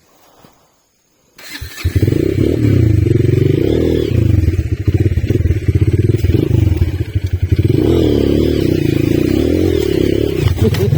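Trail motorcycle engine running hard under load, starting abruptly about a second and a half in, its pitch rising and falling as the throttle is worked.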